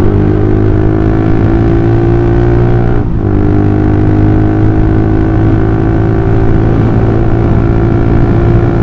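Old Honda CB150R's single-cylinder engine running at steady road speed through a full-system DOS Muffler aftermarket exhaust, with a deep exhaust note. The note breaks briefly about three seconds in, then carries on steadily.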